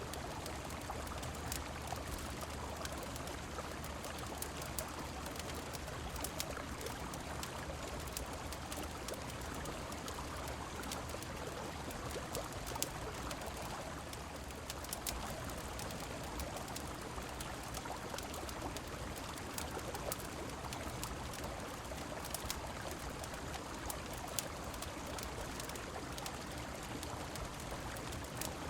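A steady rush of a river and falling rain, mixed with frequent small, sharp crackles of a fireplace.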